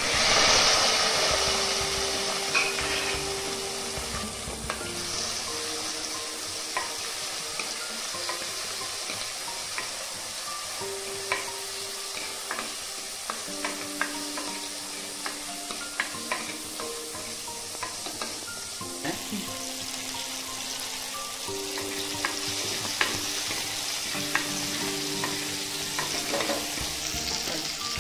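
Whole shallots dropped into hot oil in a clay pot, a loud burst of sizzling right at the start that settles into steady frying. A wooden spoon stirs them, with scattered light knocks against the pot.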